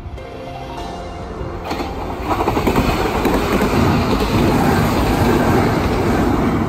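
A Kintetsu Minami Osaka Line electric train approaching and passing close by. Its wheel and rail rumble grows louder over the first two seconds or so, then holds loud and steady.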